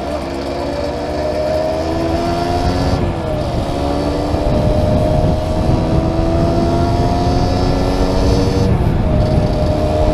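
Small motorcycle engine accelerating through the gears: the pitch climbs steadily, drops at a gear change about three seconds in, climbs again and drops at another shift near the end. Wind rushes over a helmet-mounted microphone.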